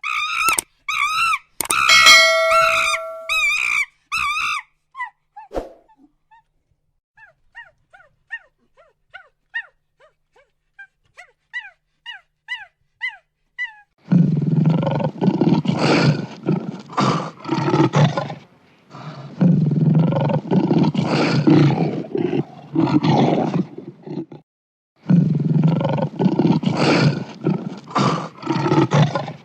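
A big cat roaring and growling in three long bouts through the second half. Before that come a few wavering high pitched calls, then a run of short, high, falling chirps.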